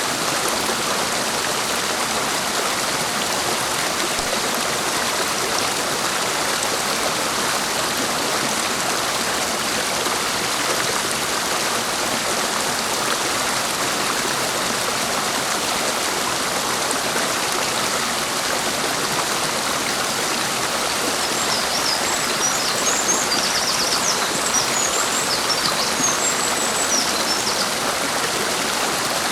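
Clear mountain stream flowing steadily over rocks. A small bird sings a short run of high chirps over it in the second half.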